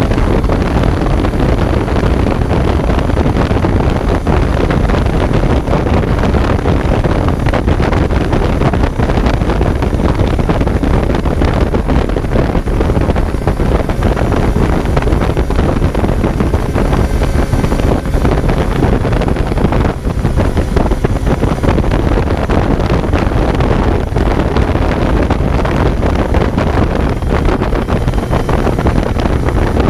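2019 Kawasaki Z900's inline-four engine running at riding speed, heard from on board, with heavy wind noise on the microphone.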